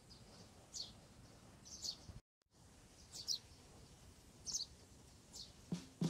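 A small bird chirping faintly: five short, quick, falling chirps spread about a second apart over a low steady background hiss.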